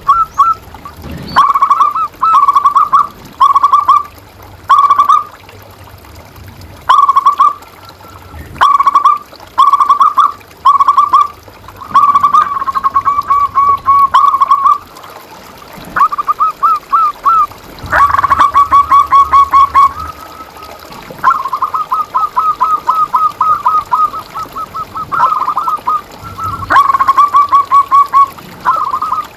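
Zebra doves (perkutut) cooing, phrase after phrase of quick, fluttering notes with short gaps between, some runs long and rapid.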